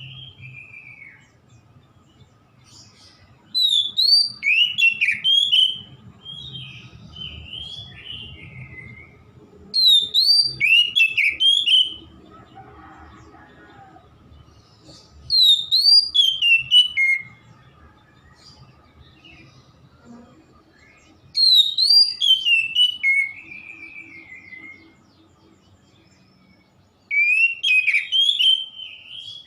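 Oriental magpie-robin (kacer) singing: five loud bursts of rich, whistled song phrases about six seconds apart, each trailed by softer notes, over a faint low rumble.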